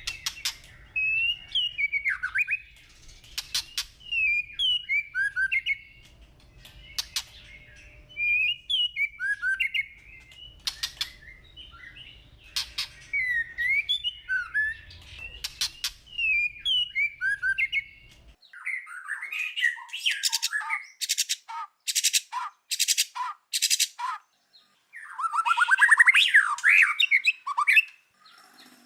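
White-rumped shama singing: a string of varied, quick whistled phrases that slur up and down. About two-thirds of the way through comes a run of sharp, evenly spaced notes, then a loud, buzzy rattling trill near the end.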